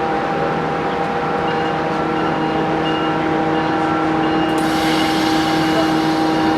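Train running at the station: a steady engine hum over a constant rumble, with a high hiss joining in about four and a half seconds in.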